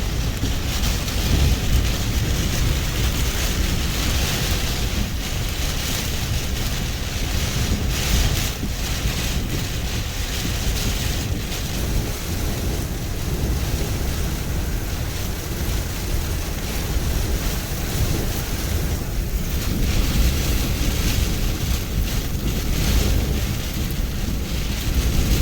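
Strong hurricane winds gusting and buffeting the microphone in a continuous rumble that swells and eases, with ocean surf mixed in.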